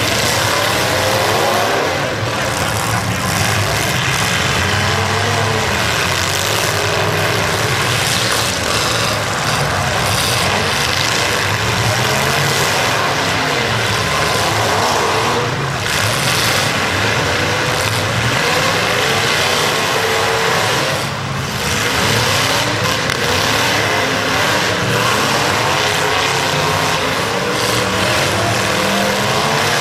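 Several demolition derby cars' engines running at once, revving up and down as they drive.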